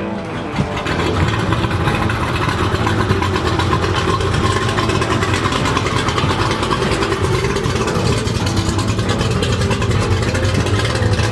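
Hot rod car engine running with a steady low rumble.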